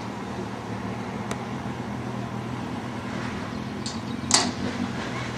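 A steady low mechanical hum, like an idling engine, with a faint click just over a second in and a sharp clank about four seconds in.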